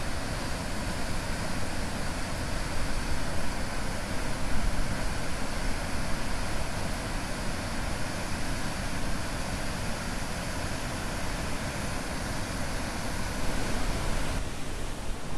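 Steady roar of the Reekie Linn waterfall running high with thaw water, a dense, even rush with a low rumble under it.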